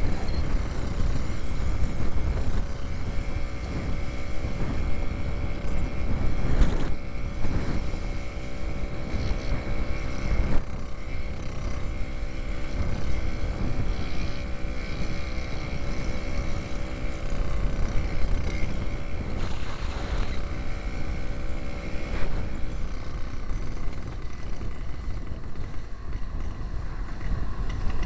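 1939 James Autocycle's 98cc Villiers Junior two-stroke single running steadily under way, heard from the rider's helmet, with low wind rumble on the microphone. A couple of brief knocks come through, once about seven seconds in and again a few seconds later.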